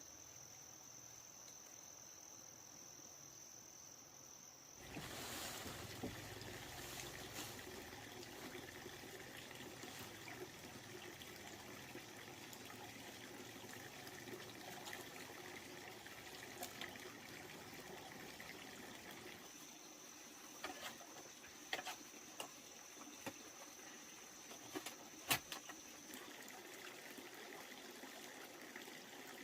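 A cricket's steady high trill, then about five seconds in a faint trickle of water starts and runs on, with scattered small clicks and knocks. The high trill comes back for a while in the second half.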